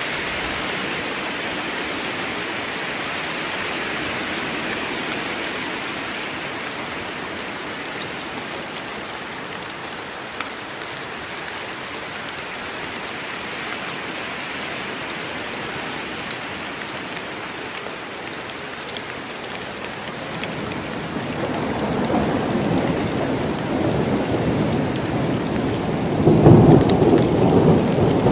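Steady rain falling in a forest, an even hiss. About two-thirds of the way through a rumble of thunder builds, loudest near the end.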